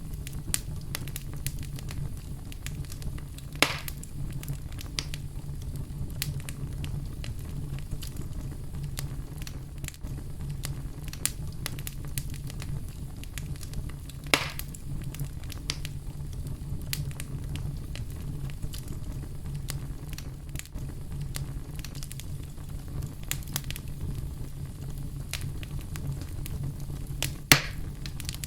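Wood fire burning in a fireplace: a steady low rumble of flame under frequent small crackles, with three louder pops, at about three and a half seconds, fourteen seconds and near the end.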